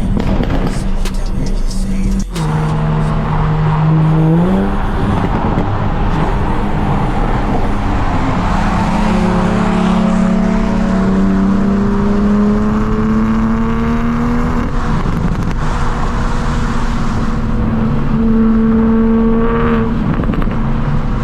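Car engines revving hard under heavy exhaust noise, typical of drift cars at speed. The engine pitch climbs about two seconds in, then climbs slowly over several seconds before dropping.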